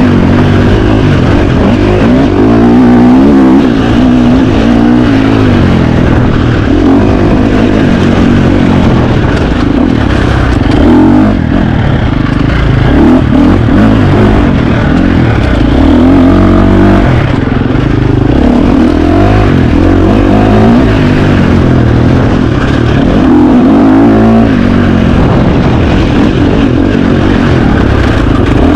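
2025 KTM 350 XC-F dirt bike's single-cylinder four-stroke engine ridden hard, revving up and down over and over as the rider works the throttle and gears.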